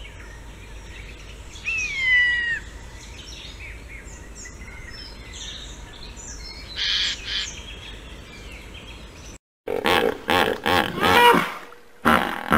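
A buzzard gives a drawn-out, descending mewing call about two seconds in and a shorter call near seven seconds, over a faint steady hiss. After a brief break near the end, hippopotamuses give a loud run of rapid, repeated calls.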